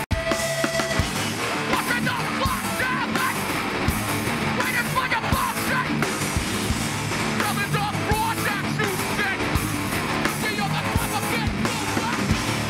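Hardcore punk band playing live: distorted electric guitars and pounding drums under shouted vocals.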